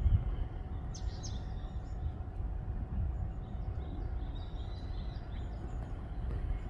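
Wind rumbling on the microphone, with small birds chirping and calling repeatedly in short high notes.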